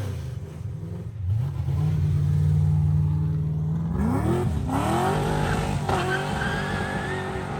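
A car engine revving hard, holding a steady note and then climbing sharply in pitch from about four seconds in as it accelerates away.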